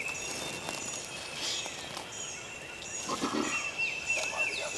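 Songbirds chirping and trilling in a morning woodland chorus, with one brief lower animal call about three seconds in.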